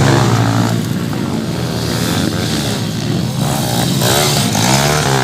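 Motocross dirt bike engines revving, the pitch rising and falling as the throttle opens and closes.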